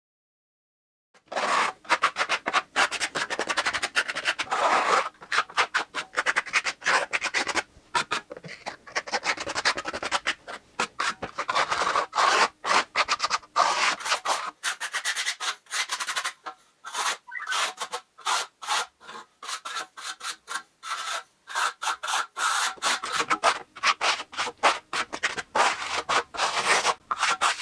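Rapid, repeated scraping and rubbing strokes of a hand tool worked over a hard masonry surface, in several spliced stretches.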